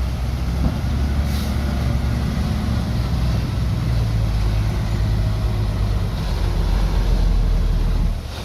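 Heavy diesel engine of earthmoving equipment running hard under load. It grows louder toward the end and then drops off sharply just before the end.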